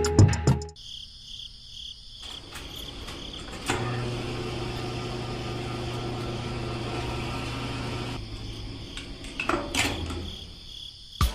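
A small electric motor switched on with a click about four seconds in, running with a steady low hum for about four seconds before stopping, over a steady high whine.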